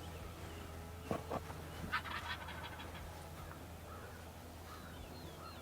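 A wild turkey tom gobbling: a quick rattling call about two seconds in, with a couple of sharp notes just before it.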